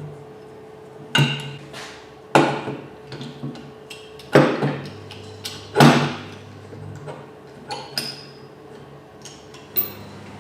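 Metal-on-metal knocks and taps of hand tools on engine parts: four loud, ringing strikes about one to two seconds apart, then a few lighter taps near the end.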